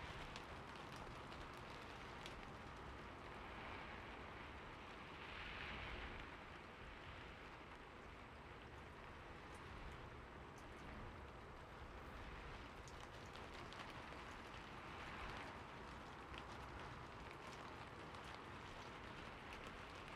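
Steady rain falling, with the fine ticks of individual drops and a few soft swells in the hiss.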